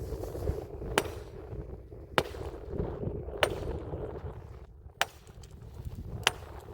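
Five sharp knocks, one every second or so, over a low rumble.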